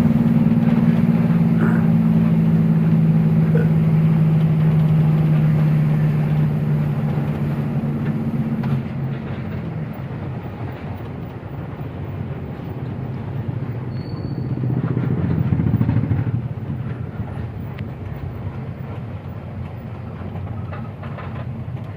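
Truck engine running steadily on the move. Its tone is strong for the first nine seconds or so, then drops back, and it swells briefly about fifteen seconds in.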